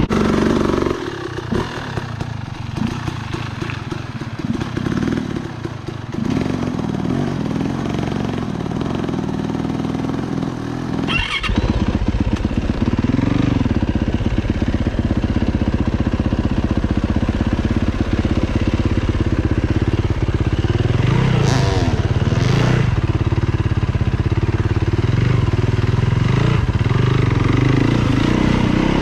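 Dirt bike engine running, quieter at first, then louder from about eleven seconds in, rising and falling in pitch as the throttle is opened and closed.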